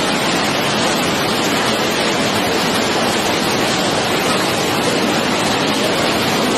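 Steady, loud rush of a large volume of water pouring at a dam, an even noise with no breaks.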